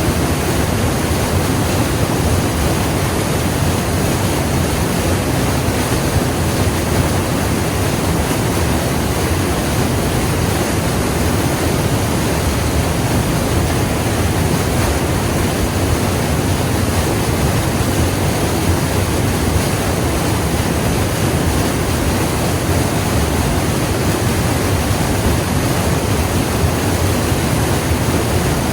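Waterfall and white water rushing in a loud, steady, unbroken roar of falling water.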